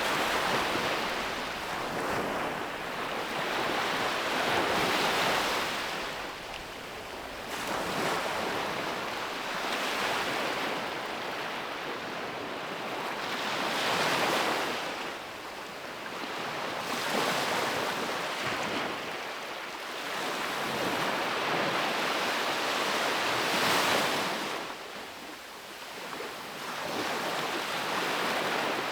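Ocean waves breaking on a beach, surging and washing back every few seconds, each surge a rush of noise that swells and fades.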